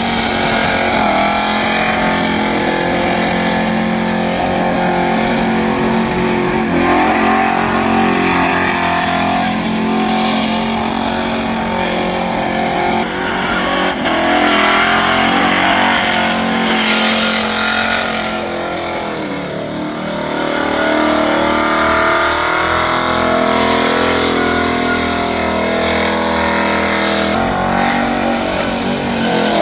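Car engine held at high revs during a burnout, with a rushing haze of tyre noise. The revs ease off briefly about two-thirds of the way through, then climb again.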